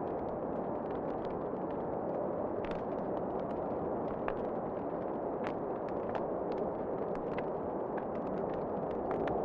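Wood fire in a fireplace crackling, with many irregular sharp pops and snaps over a steady rushing background.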